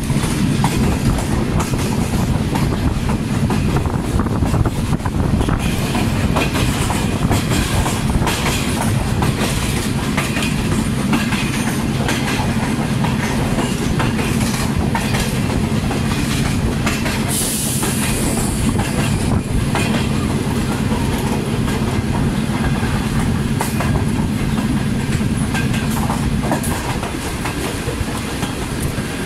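Subak Raftar Express passenger train with its ZCU-20 diesel-electric locomotive running on the rails, wheels clicking over rail joints over a steady low engine hum. There is a brief hiss about 17 seconds in, and the hum drops away about 27 seconds in.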